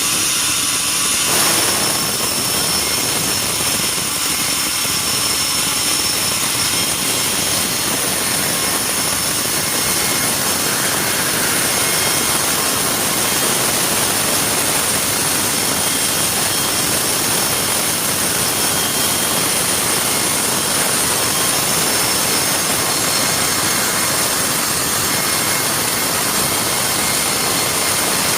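Sawmill saw machinery running steadily, a loud even noise with a high whine over it; about a second in, the sound grows fuller and stays that way.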